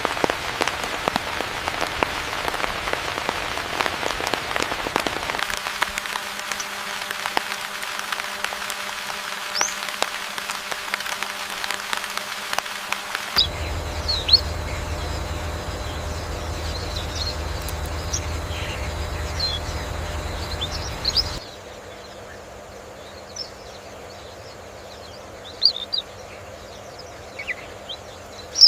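Steady patter like rain on leaves for about the first half. Then it cuts to rainforest ambience with a low steady hum and scattered short, high bird chirps, and drops quieter about three quarters of the way through.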